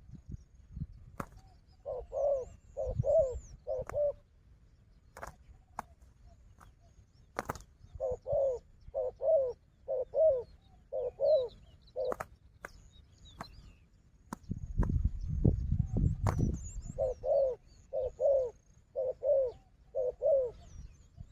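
Spotted doves cooing in three runs of rolling coo notes, about one note every half second. Scattered sharp clicks sound throughout, and a few seconds of low rustling noise come just before the last run. Faint high chirps of small birds are heard.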